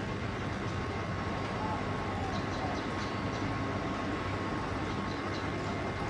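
Steady low rumble of urban background noise, with a faint steady high tone and a few faint, short bird chirps.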